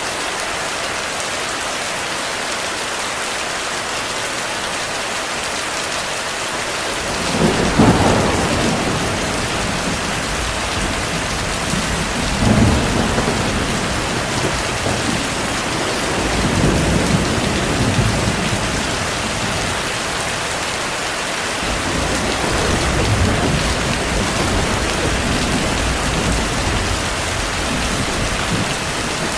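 Steady heavy rain, with rolling thunder that begins about seven seconds in and swells several times before rumbling on to the end.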